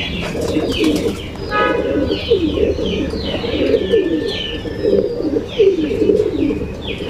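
Racing pigeons cooing in a loft, many overlapping coos repeating, with higher chirping calls above them and a few sharp clicks about a second in.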